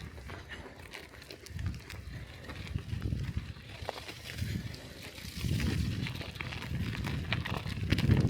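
Riding sounds of a bicycle on snowy streets, picked up by the rider's camera: wind buffets the microphone in uneven low rumbling gusts, with light clicks and crackles from the bike and its tyres on snow.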